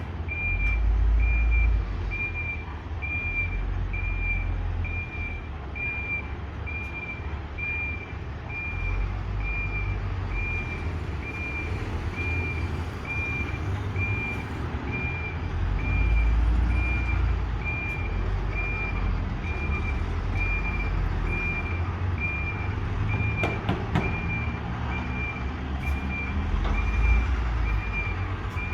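Truck reverse alarm beeping at one steady high pitch, about one beep a second, over the low rumble of the truck's engine as it manoeuvres.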